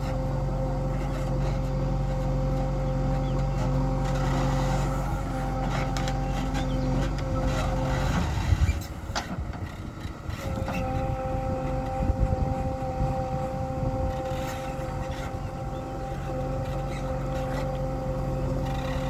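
Heavy diesel machinery running steadily with a constant high whine. About eight and a half seconds in there is a loud knock and clatter. The whine drops out for about two seconds, then the same steady running resumes.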